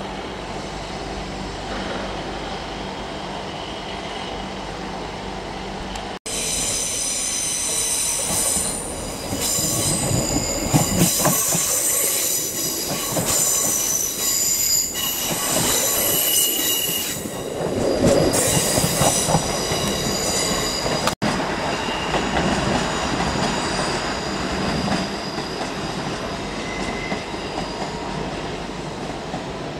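Electric trains in a station. A Northern Class 333 electric multiple unit stands with a steady low hum. Then a train passes close by with loud, high-pitched wheel squeal and clatter over the track. Then a Class 333 rolls away more quietly, with a faint squeal.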